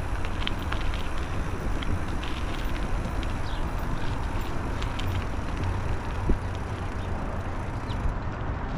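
Steady wind rumble on the microphone and bicycle rolling noise while riding, with a single sharp click about six seconds in.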